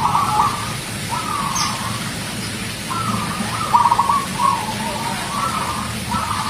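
Zebra dove (perkutut) cooing: short rolling coo phrases with quick trilled notes, repeating every second or so.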